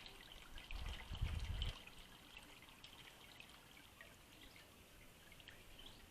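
Small garden birds chattering at a feeder with many quick, high chirps, and a brief low rumble about a second in.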